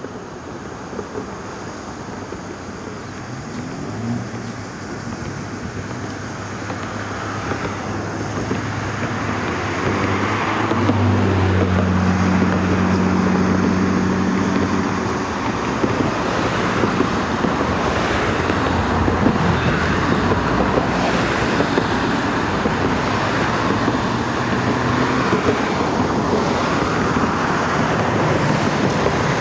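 A steady rushing noise with wind on the microphone, growing louder over the first ten seconds. A motor vehicle's engine hums past from about eleven to fifteen seconds in.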